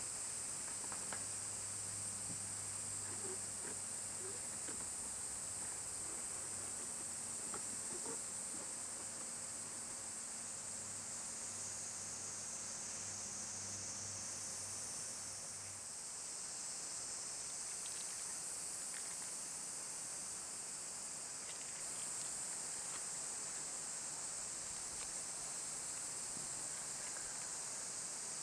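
Steady high-pitched chirring of insects in the woods. A low hum sits underneath for the first half and then stops, with faint scattered ticks throughout.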